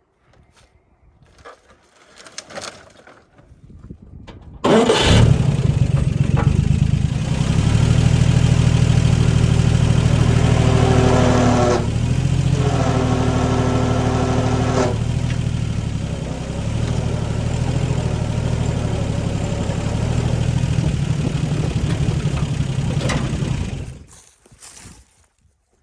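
An engine cuts in abruptly about five seconds in and runs steadily, its pitch shifting for a few seconds midway, then stops shortly before the end.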